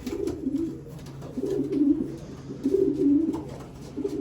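Racing pigeons cooing: about four low, warbling coos in a row, roughly one a second.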